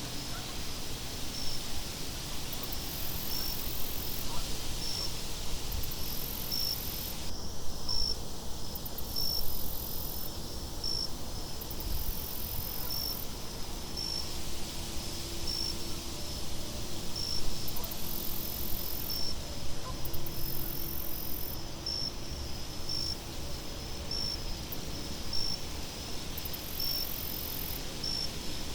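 Crickets chirping in a steady, even rhythm, about one to two chirps a second, with a higher insect buzz coming and going every couple of seconds, over a low, steady wind.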